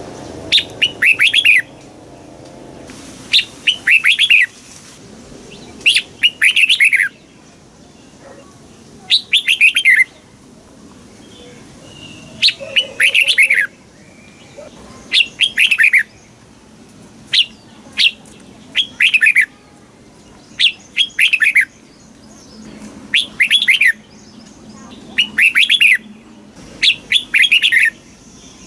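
Red-whiskered bulbul singing: short phrases of quick, falling whistled notes, each under a second long, repeated about every two to three seconds.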